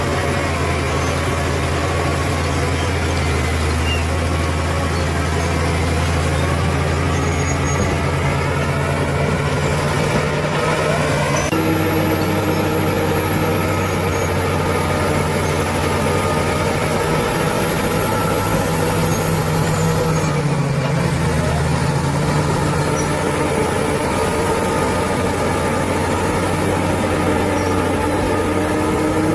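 Bulldozer's diesel engine running steadily under load, with a thin high whine above it. The engine note shifts abruptly twice, about 11 and 21 seconds in.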